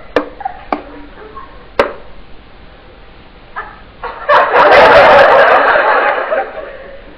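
A knife point striking a tabletop a few times, slowing from the fast stabbing just before. About four seconds in comes a loud, harsh cry that lasts about two seconds.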